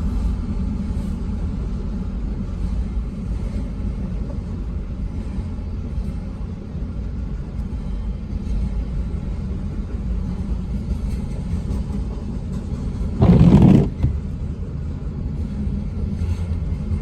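Low, steady rumble of a freight train of auto rack cars rolling past. A brief loud burst of noise, about half a second long, comes about 13 seconds in.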